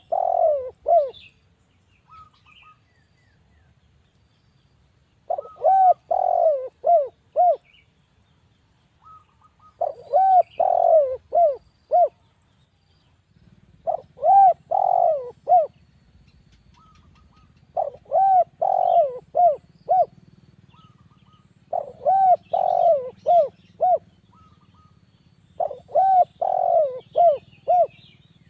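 Spotted dove (derkuku) cooing: a phrase of several rounded coo notes ending in quicker short notes, repeated about every four seconds. Faint high chirps of small birds sound between the phrases.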